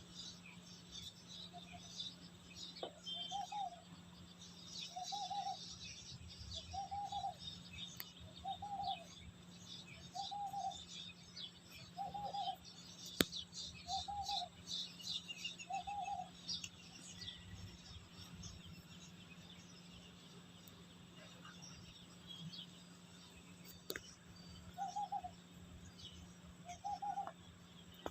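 Birds calling: one bird repeats a short, even mid-pitched note about every second and a half, eight times, falls silent for several seconds, then takes it up again near the end, over steady chirping from small birds. A single sharp click about halfway through.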